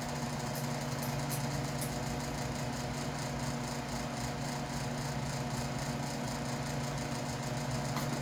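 Steady hum of a noisy shop fan running at a constant speed, with a few faint ticks in the first couple of seconds.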